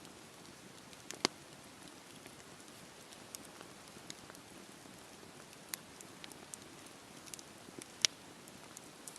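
Campfire crackling: a steady soft rush of burning wood with scattered sharp pops, two of them much louder, one about a second in and one near the end.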